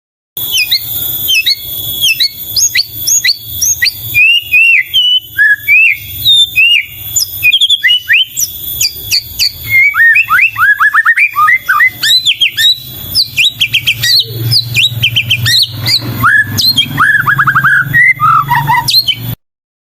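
White-rumped shama (murai batu) singing a fast, varied song of whistled notes and quick rising and falling slurs, almost without pause. A low hum runs underneath, louder in the second half, and the song cuts off abruptly shortly before the end.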